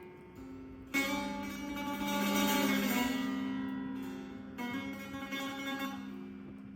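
Persian setar being plucked: a strong strummed chord about a second in rings out and slowly fades, with lighter plucked notes near five seconds.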